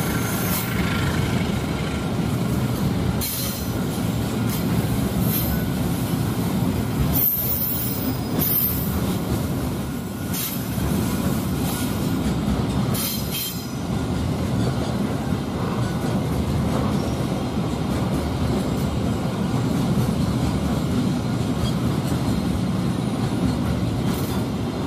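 A train passing at close range: a steady rumble of wheels on the rails, with a few sharp clacks from the wheels going over rail joints.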